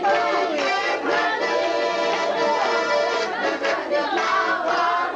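Accordion playing a lively tune, with singing over it.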